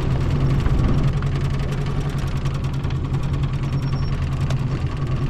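Small boat's motor running steadily with a constant low hum.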